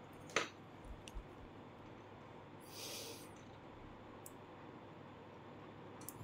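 A sharp click, then a couple of fainter clicks, a brief hissing rustle and a few small ticks, over faint steady hiss.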